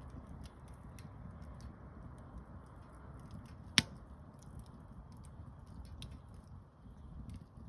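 Wood campfire burning, with scattered faint crackles and one sharp, loud pop about halfway through.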